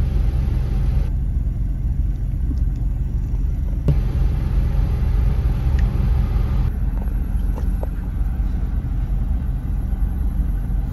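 Toyota car's engine idling, a steady low rumble heard from inside the cabin while the car stands still.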